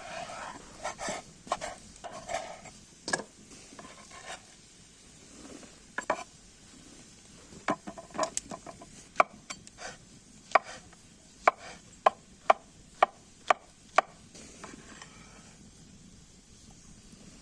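Knife chopping food on a wooden cutting board: a few scattered cuts, then a run of sharp, evenly spaced chops about two a second in the second half.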